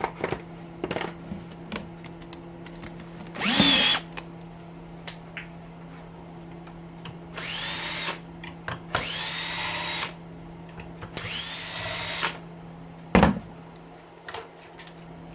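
Power drill-driver with a star bit spinning up in short runs, backing the screws out of a hedge trimmer's housing. There is one brief burst, then three longer runs of about a second each, each whine rising and then holding steady, with light clicks and clatter of parts between.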